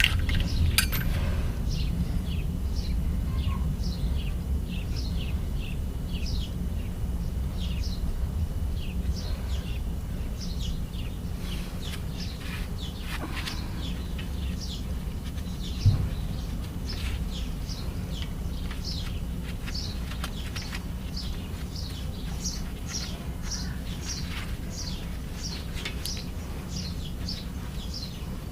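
Birds chirping: many short, quick falling chirps, thicker in the second half, over a steady low rumble, with a single sharp knock about sixteen seconds in.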